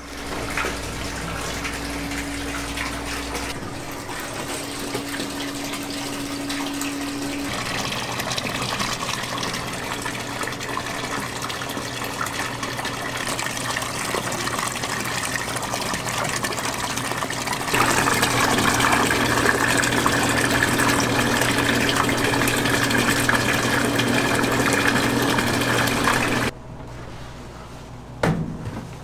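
Water running steadily, as from a tap filling something, getting louder about two-thirds of the way through and then shut off abruptly near the end.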